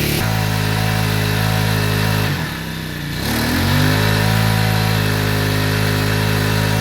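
Small four-stroke engine of a crop sprayer pump running steadily. A little over two seconds in, its speed drops sharply for about a second, then picks back up and holds steady.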